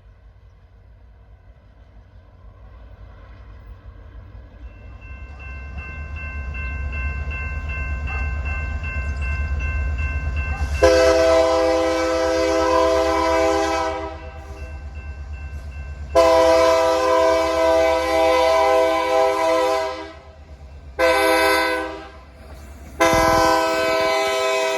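Diesel locomotive approaching with its engine rumble growing louder, then sounding its horn in the grade-crossing pattern: long, long, short, long, the last blast still going at the end.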